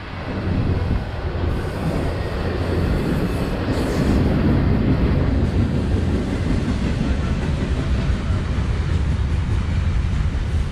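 Freight train rolling past, a steady loud rumble of cars and wheels on the rails.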